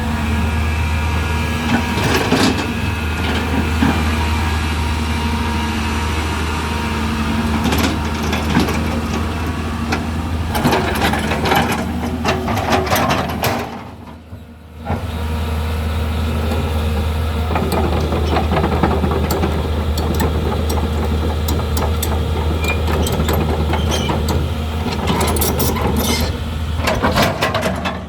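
Hyundai Robex 215L excavator's diesel engine running steadily at work, with repeated knocks and clanks from the machine as it digs. The sound drops away sharply for about a second midway, then resumes.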